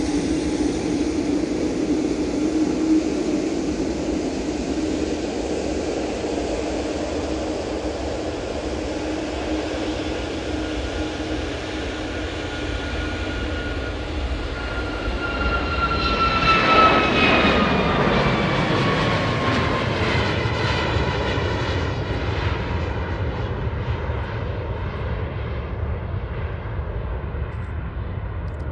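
Airliner engines running. One aircraft passes close about two-thirds of the way through: a whine that falls in pitch as it goes by, swelling to the loudest point, then a rumble that fades slowly.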